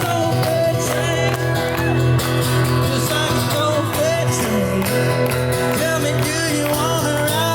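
Live country band playing a song, with guitar and a steady drum beat between sung lines.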